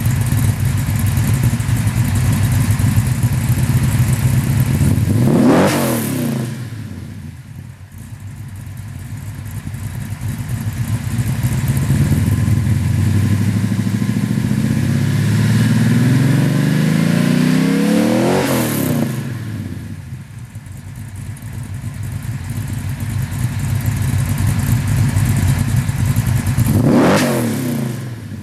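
Chevrolet 502 cubic-inch big-block V8 running through 3-inch Magnaflow mufflers and tailpipes. The exhaust rumbles loudly, then swells and climbs in pitch to three peaks, a quick one about six seconds in and slower build-ups around eighteen and twenty-seven seconds, each falling away after.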